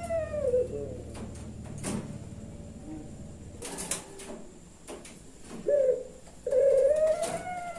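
Puter pelung dove cooing: a long drawn-out coo trails off just after the start, a short note comes near 6 s, and another long coo rises and swells near the end. A few sharp knocks sound in between.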